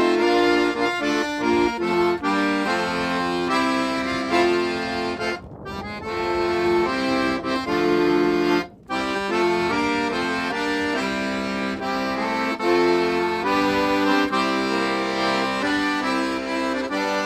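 Accordion music: a tune of held notes and chords. It breaks off briefly about five and a half seconds in and again near nine seconds.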